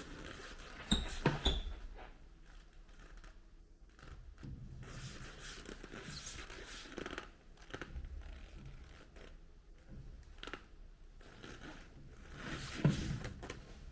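Hand work on parts at a workbench: a few sharp knocks and clinks about a second in and again near the end, with rustling and scraping between.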